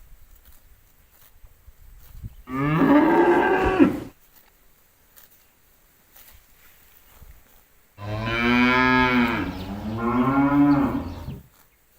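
A cow mooing twice: a short moo about two and a half seconds in, then a longer two-part moo starting about eight seconds in.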